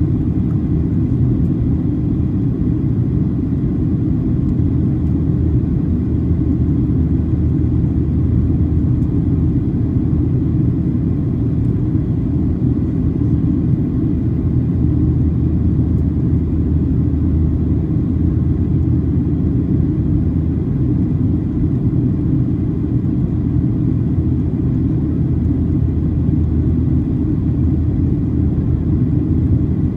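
Cabin noise inside a Boeing 737-800: a steady, loud low rumble from its CFM56-7B engines and the airflow, holding an even pitch and level throughout.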